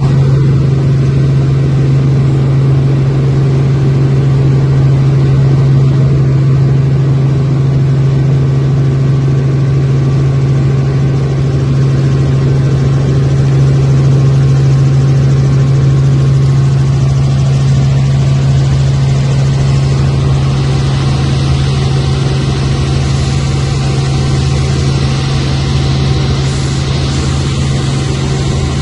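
Helicopter cabin noise heard from a passenger seat: a loud, steady drone with a strong low hum from the engine and rotor. A higher hiss grows louder after about twenty seconds.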